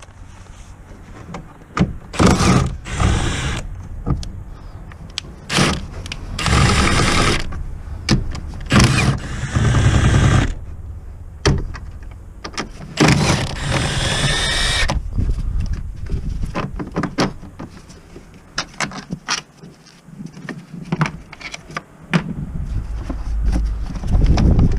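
Power tool run in about four short bursts of one to three seconds, with clicks and knocks in between.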